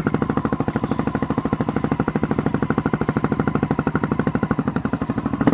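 Dirt bike engine idling with its choke still on, a rapid, even putter.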